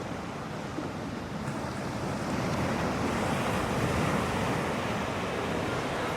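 Steady rushing ambient noise at a beach, with no clear events in it, swelling over the first few seconds as the sound fades in.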